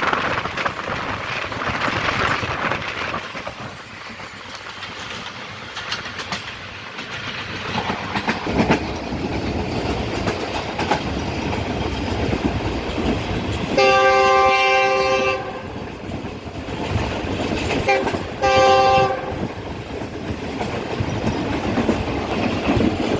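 A passenger train running on the track with a steady rumble and rail clatter. Its locomotive horn sounds a long multi-tone blast about 14 s in, then a short one a few seconds later.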